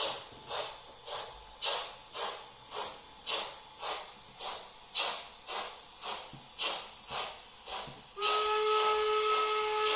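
ESU LokSound 5 sound decoder in a Märklin H0 class 45 steam locomotive model, played through the model's own loudspeaker: steam exhaust chuffs at about two a second, every third beat louder, synchronised for a three-cylinder engine. After about eight seconds a steady chord-like steam whistle sounds and is held.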